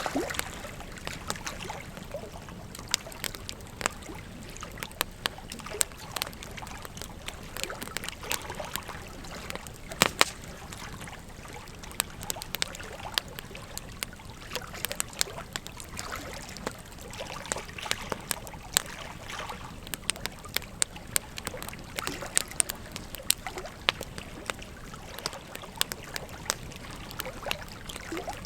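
Wood fire crackling, with frequent irregular sharp snaps and one louder pop about ten seconds in, over the steady rush of a flowing river.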